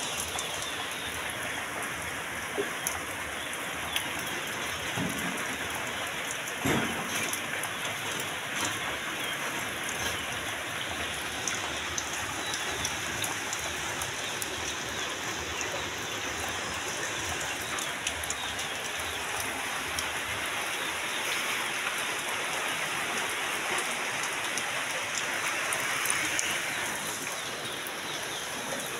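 Heavy, torrential rain falling steadily on a waterlogged, muddy yard and splashing into standing water, with scattered sharp drop ticks and a couple of louder knocks about five and seven seconds in.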